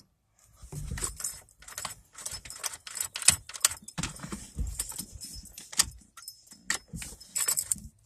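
Keys jingling: irregular light metallic clicks and rattles, several a second.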